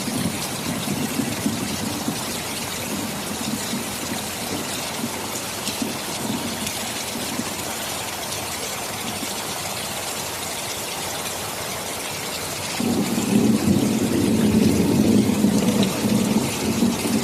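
Steady rain hissing, with a low rumble of thunder that fades in the first couple of seconds and returns suddenly and louder about thirteen seconds in.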